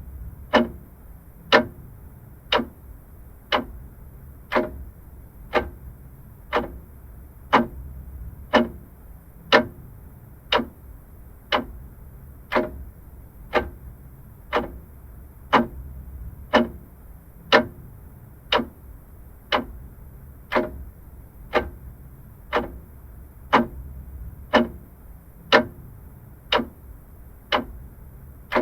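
Vintage clock ticking steadily, about one tick a second, over a faint low hum.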